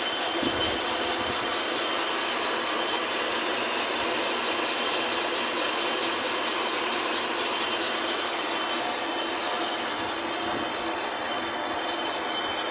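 Cylinder boring machine cutting a cylinder bore in a Hyundai Sonata engine block: a steady mechanical running and metal-cutting noise with a high hiss. It grows a little louder a couple of seconds in and eases off over the last few seconds.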